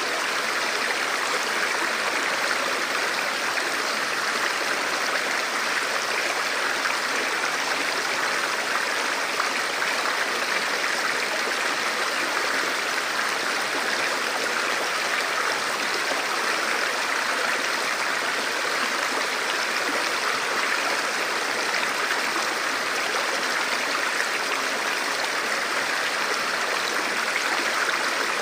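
A forest river or stream flowing steadily over rocks, a continuous rushing of water that does not change.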